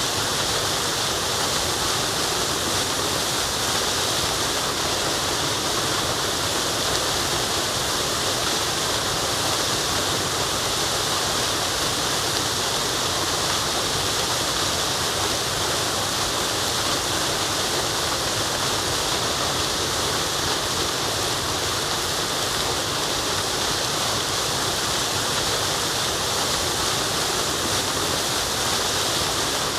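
Waterfall rushing with a steady, unbroken hiss of falling water.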